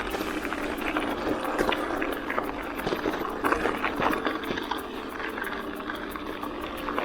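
Hardtail mountain bike rolling along a dirt trail: a steady crackle of the tyres on the ground mixed with the bike's rattle, and a faint even ticking about four or five times a second.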